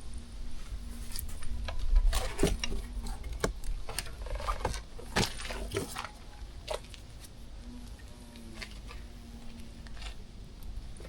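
Handling noises in a small space: scattered clicks, light knocks and rattles, most of them in the first seven seconds, over a low rumble.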